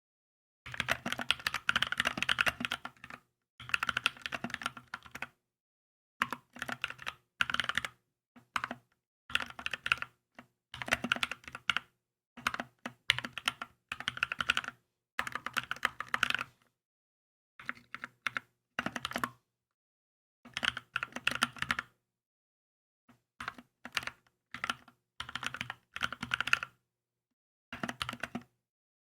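Typing on a Keychron K2 mechanical keyboard: bursts of quick keystrokes a second or two long, broken by short pauses of complete silence.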